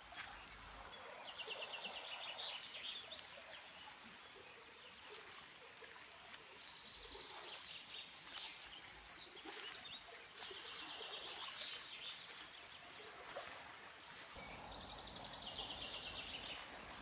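A songbird repeating a short, high trilled phrase about four times, roughly every four seconds, over a steady faint hiss of outdoor ambience, with scattered light footstep ticks.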